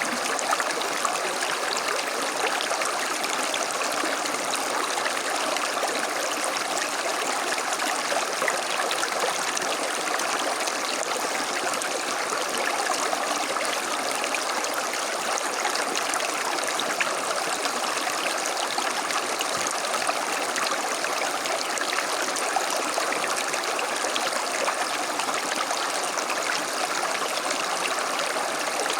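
Creek running steadily: an even, unbroken rush of flowing water with a constant trickle.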